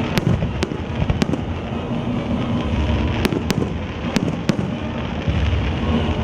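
Aerial fireworks show in full swing: a dense, continuous rumble of shell bursts with about seven sharp cracks scattered through it.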